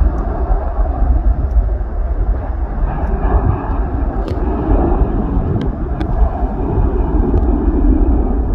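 Jet airliner's engines at departure thrust: a loud, steady deep rumble with a roaring hiss over it, and a few faint clicks in the middle.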